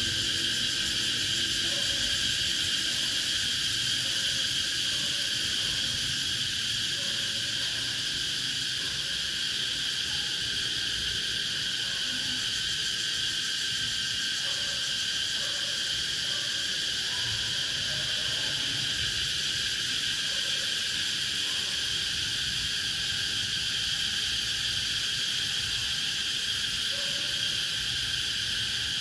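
Cicadas singing in chorus: a steady, unbroken high-pitched drone that holds the same pitch and level throughout.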